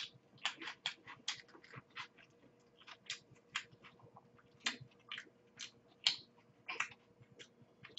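Close-miked chewing of macaroni and cheese: quiet, irregular mouth clicks and smacks, a few each second.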